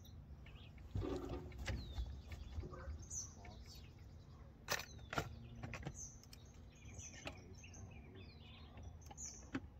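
Small birds chirping on and off in short, falling notes over a low steady background, with a couple of sharp clicks about halfway through and some low bumps in the first two seconds.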